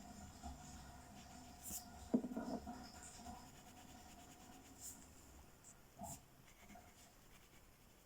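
Faint scratching of a coloring pen or pencil on paper, with a few light ticks and one louder knock a little over two seconds in.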